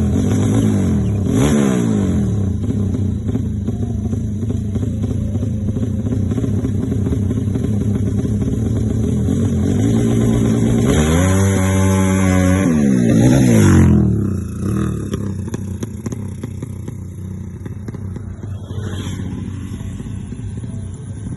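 Newly fitted engine running at idle while being set up, blipped briefly about a second and a half in, then revved up about eleven seconds in, held for a couple of seconds and let fall back to idle.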